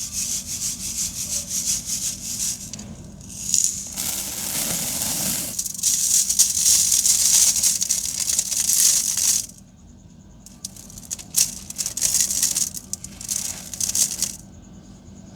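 Dry sand-cement chunks crumbling with a gritty, crackly crunch: a long stretch for most of the first ten seconds, then several shorter bursts near the end.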